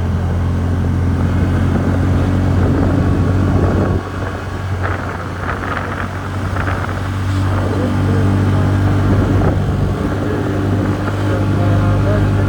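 TVS Ntorq 125 scooter's single-cylinder engine running steadily while riding; it eases off about four seconds in and builds again a few seconds later.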